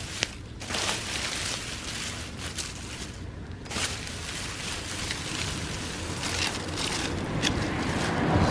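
Bonfire of dry summer grass burning: a steady rushing noise with scattered sharp crackles and pops, growing louder near the end.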